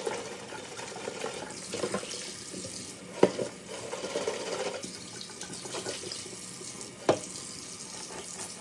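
Liquid running and splashing into a kitchen sink, with two sharp knocks, about three seconds in and near seven seconds.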